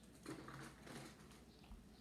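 Faint scratching and rustling of paper being handled at a table, strongest about a quarter of a second to a second in.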